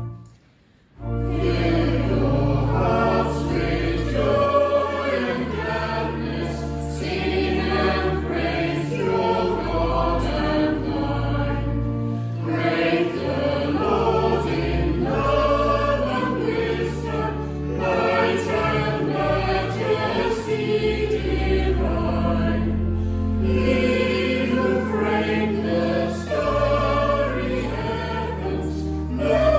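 Church choir and congregation singing a hymn over sustained pipe organ chords. The organ breaks off briefly about half a second in, then the singing and organ go on without pause.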